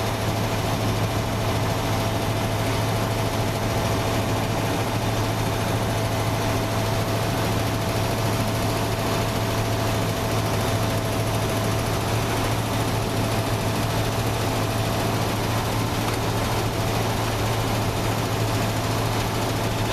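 Chevrolet B-body's 350 small-block V8 idling steadily while warming up after a cold start, with a thin steady whine above the engine note.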